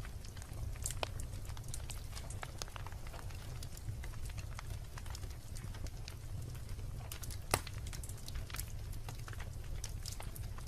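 Wood logs burning in a fireplace: irregular crackles and small pops over a low steady rumble, with one sharper pop about seven and a half seconds in.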